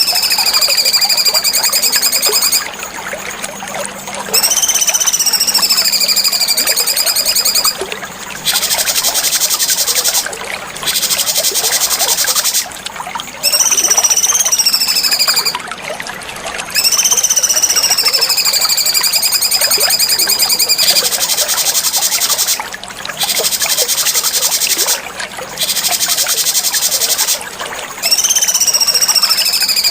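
Cucak cungkok singing in a repeating pattern: drawn-out high whistles, each rising then sliding down and levelling off, alternating with stretches of very fast, buzzy chattering trills, over a steady hiss.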